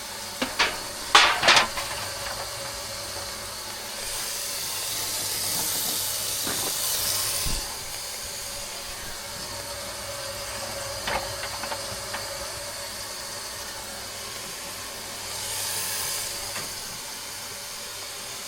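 Water running from a newly installed faucet as a hiss, once for about three and a half seconds and again briefly near the end, over a steady background hiss. A few sharp clicks and knocks at the start, and a thump as the first run stops.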